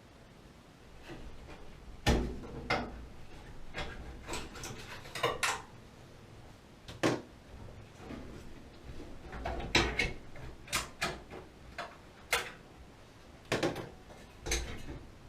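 Irregular metallic clinks and knocks of tools and small metal parts being handled, about a dozen sharp strikes at uneven intervals.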